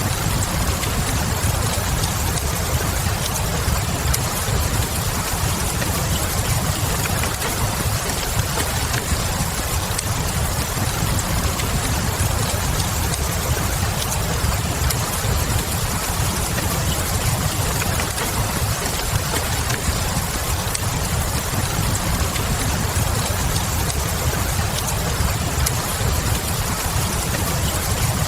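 Steady rain hiss with a low rumble underneath, and a wood fire crackling: scattered faint sharp pops over the even noise.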